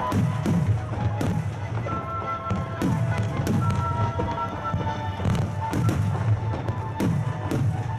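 Fireworks bursting in rapid succession in a music-synchronised starmine barrage: a dense run of sharp cracks and deep booms, with music playing along.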